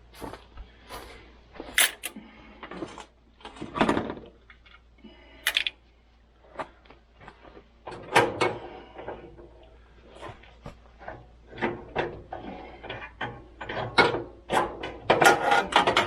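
Irregular clanks, knocks and rattles of hand tools and metal parts, some with a short ring, as the riding mower is worked on to take its engine off; busiest near the end.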